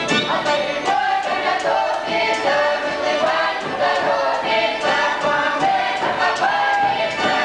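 A group of voices singing a song together over a steady beat of sharp percussive strokes.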